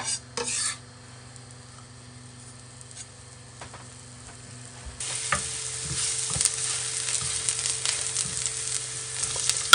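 Minced garlic sautéing in olive oil in a frying pan, with a few light clicks of stirring. About halfway through, a loud, steady crackling sizzle starts suddenly and runs on with small scrapes of the utensil.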